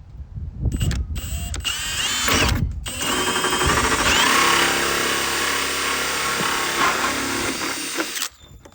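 Power drill spinning a hole saw through the plastic wall of a 5-gallon bucket: a steady motor whine over rough cutting noise, running for several seconds and stopping abruptly near the end.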